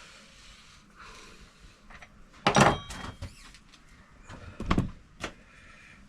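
Two solid metal clunks about two seconds apart, the second followed by a lighter click: tools and fork parts being handled and set down on a workbench during fork reassembly.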